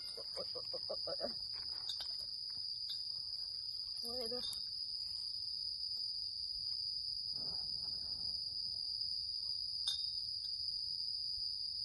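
Crickets or similar insects chirring, a steady high-pitched trill that holds without a break, with a few faint words spoken softly about four seconds in.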